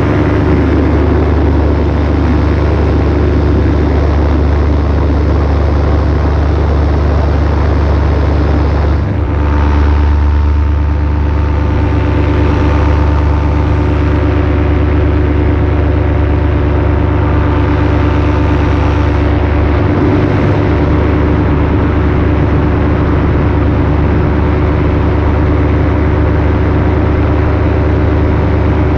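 Paramotor engine and propeller running steadily at cruise throttle in flight, with a brief dip in level about nine seconds in.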